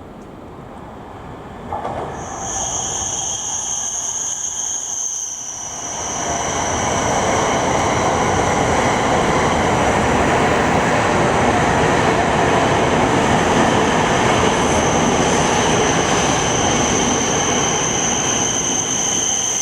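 Shinkansen bullet train running into the station, a loud rushing rumble that builds from about six seconds in, with a steady high-pitched squeal throughout.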